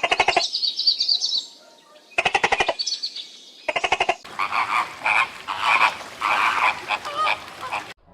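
Animal calls: three short, rapid rattling trills, then a run of rattling calls repeated about twice a second.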